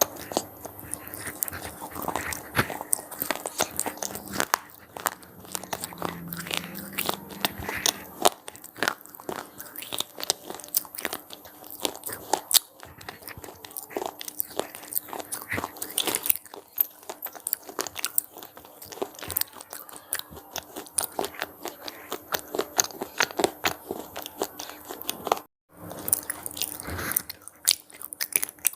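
Red cheese-pizza-flavoured crunchy snacks being bitten and chewed close to the microphone: a dense, irregular run of crisp crunches. There is a brief break about three seconds before the end.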